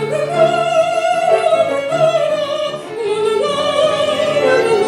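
A woman singing a Russian romance in a classical, operatic style, holding long notes with vibrato over instrumental accompaniment.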